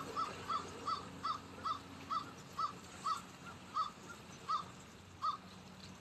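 A bird giving a series of about a dozen short calls that come further and further apart, stopping about five seconds in.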